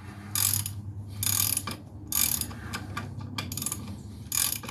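Hand ratchet wrench clicking through repeated back-and-forth strokes, about one a second, as a bolt is worked loose.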